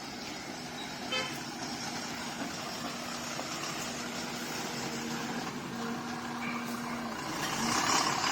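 Road vehicle running amid traffic noise, with a steady horn tone sounding in long stretches that break off and start again; the noise swells near the end.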